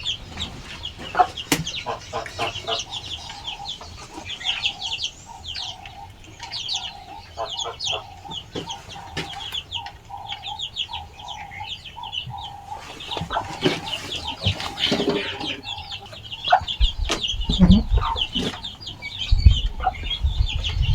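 A flock of chickens clucking, with young chicks peeping over it in many short, high chirps. A few low rumbling thumps come near the end.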